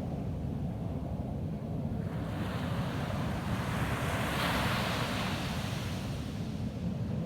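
Ocean surf on a beach: a wave breaks about two seconds in, its hiss swelling and then fading over about four seconds. A steady low rumble of wind on the microphone runs underneath.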